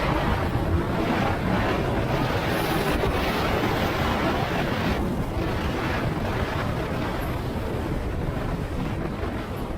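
Wind rushing over the microphone of a motorcycle rider at speed, a dense steady roar of wind and road noise that eases off gradually toward the end.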